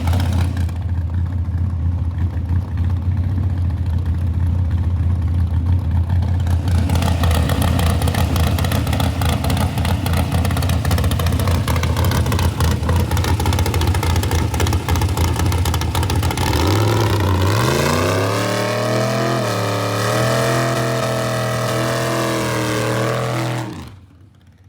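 Race car engine running with a steady low drone. From about two-thirds of the way in, its note rises and wavers as it is revved. The sound cuts off sharply near the end.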